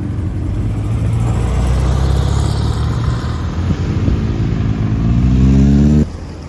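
Porsche sports car engine running under throttle, its note climbing steadily in pitch over the last two seconds as it accelerates, then cutting off suddenly about six seconds in.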